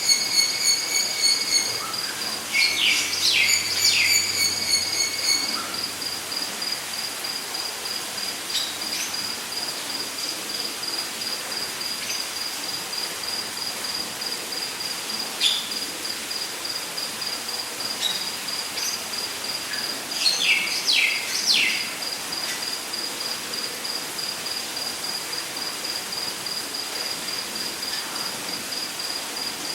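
Rainforest ambience: an insect's steady, high-pitched pulsed chirping runs throughout, while birds call in clusters of quick descending notes near the start, about 20 seconds in and again at the end, over a soft steady hiss. A trilling bird call is also heard in the first few seconds.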